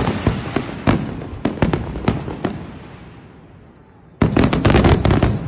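Fireworks going off: a string of sharp bangs that thins out over the first two and a half seconds, a brief lull, then a rapid volley of cracks starting about four seconds in.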